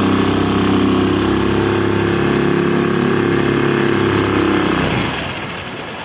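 Tohatsu 6 hp four-stroke outboard motor running at a steady speed. About five seconds in, its low engine note drops away and the sound gets much quieter.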